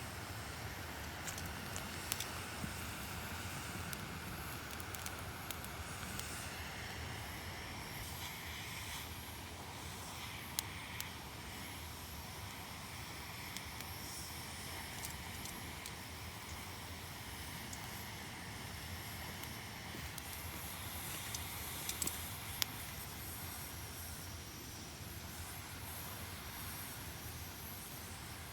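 Small campfire of kindling hissing steadily, with scattered crackles and a few sharper pops.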